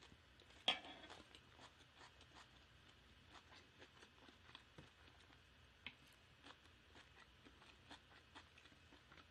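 Faint, quiet chewing with small mouth clicks, and one sharp clack a little under a second in as a wooden serving spoon is set down in a stainless steel food tray.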